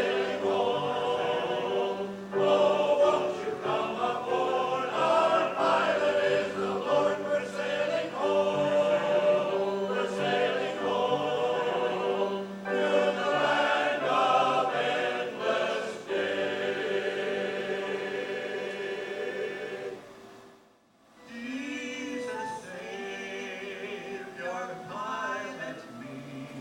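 Choir singing, with a long held chord that breaks off about twenty seconds in; after a brief pause the singing resumes more softly.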